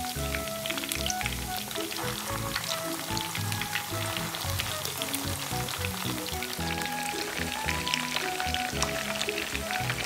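Battered chicken breast pieces frying in a pan of hot oil, a dense steady crackle and sizzle, under background music with a melody.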